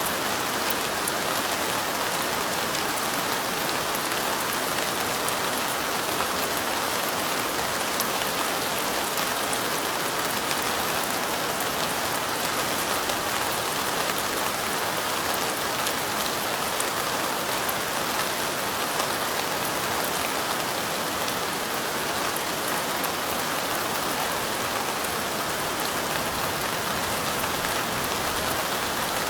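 Steady light rain pattering on window glass, a dense even hiss of fine drops.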